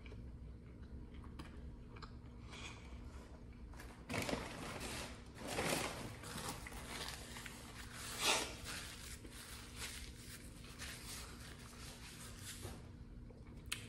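Quiet mouth-closed chewing with small clicks, then several rustling handling noises between about four and nine seconds in, the loudest just past eight seconds, over a steady low room hum.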